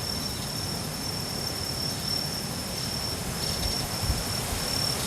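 Crickets trilling in one high, steady pitch with a few short breaks, over a low wind rumble on the microphone that gusts about three and a half to four seconds in.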